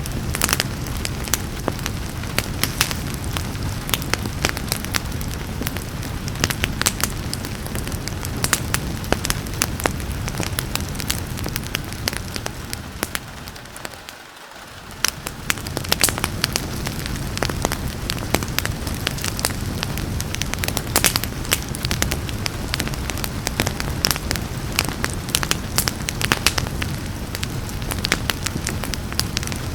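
Fireplace crackling with many sharp pops and snaps over a steady hiss of rain. About halfway through, the sound briefly fades down and then swells back.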